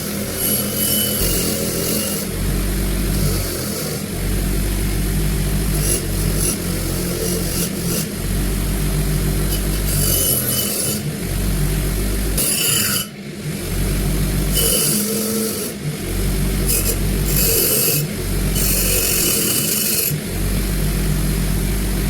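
A power tool running in short spells, with a scratchy abrasive noise coming and going as it is pressed against metal parts of a pistol being restored.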